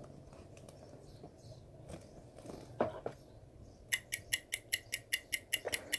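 Faint room noise with a few soft clicks, then, about four seconds in, a rapid run of short, high electronic pips, about five a second.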